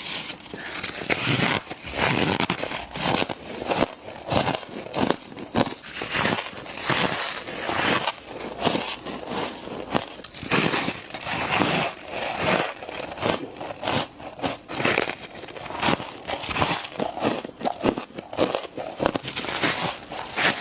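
Close-up crunching of flaky humidifier frost being bitten and chewed, a rapid run of crisp, crackling bites, several a second.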